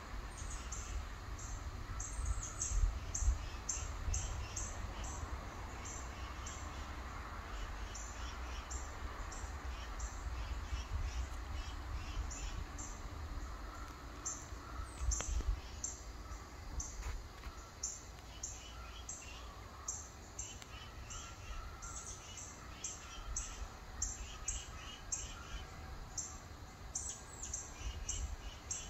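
Small birds chirping repeatedly, with short high-pitched notes two or three times a second, over a steady low rumble.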